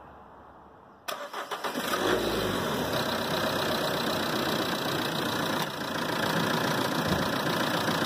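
Car engine started: the starter cranks for about a second, the engine catches, then settles into a steady idle.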